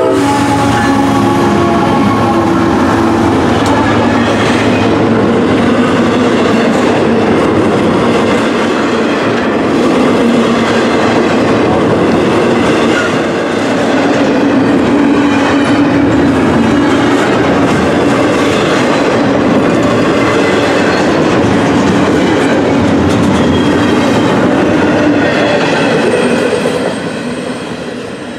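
CSX diesel freight locomotives and a long double-stack container train rolling past at close range, with steady engine drone and wheels clacking over the rails. The end of a horn blast dies away at the very start, and the sound fades near the end as the last cars pull away.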